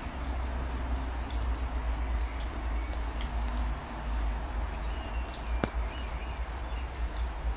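Steady rain hiss with a low wind rumble on the microphone, while birds give short high chirps several times. A single sharp click sounds a little before the end.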